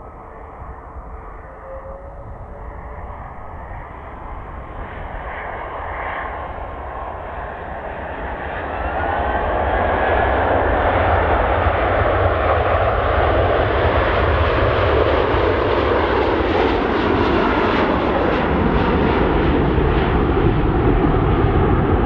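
Virgin Atlantic Airbus A330-300 airliner's twin jet engines, growing steadily louder for about ten seconds as the plane comes closer, then running loud and steady.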